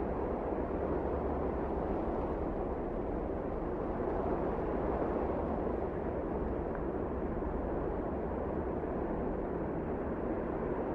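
Wind blowing steadily: an even, dense rushing noise without gusts or breaks.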